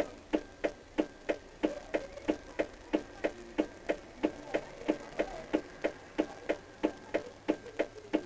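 Steady, even ticking, about three ticks a second, like a clock or a metronome beat.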